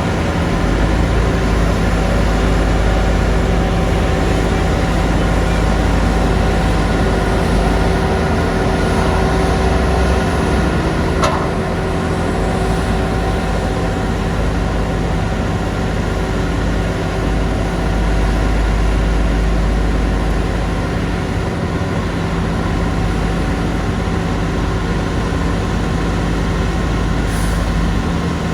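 Heavy diesel engine of road construction machinery running steadily with a deep rumble, with a single sharp clank about eleven seconds in.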